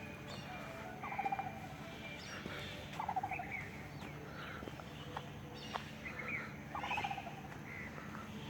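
Birds calling outdoors: short chirping calls every couple of seconds over a faint steady low hum.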